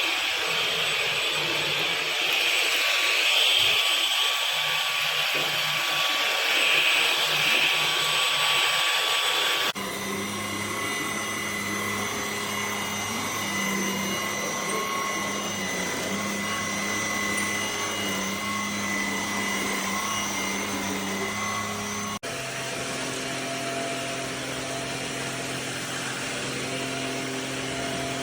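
Cordless stick vacuum running steadily with a motor whine. The sound changes abruptly twice, about ten seconds in and again about twenty-two seconds in, each time to a differently pitched running with steadier hum tones.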